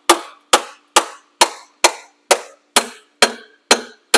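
Hand hammer striking metal in a steady rhythm, about two sharp blows a second, to knock a stuck timing cover loose on a DT466 diesel engine. A faint metallic ring carries on between the blows.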